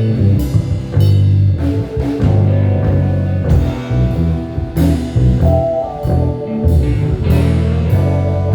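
Live band playing an instrumental passage: electric bass carrying a loud, moving bass line under drum kit hits, with keys and guitar or sax above.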